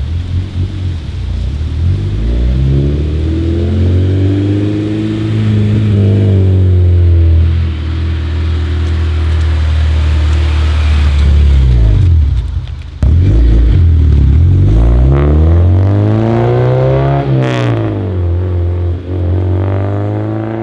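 Car engine accelerating hard, its pitch climbing and then dropping back several times as it revs up and eases off, with a sudden break about two-thirds of the way through.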